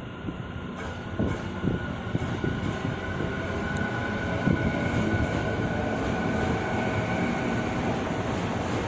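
A train running through on the rails, its rumble growing louder over the first few seconds and then holding steady, with a steady high whine and a few sharp clicks early on.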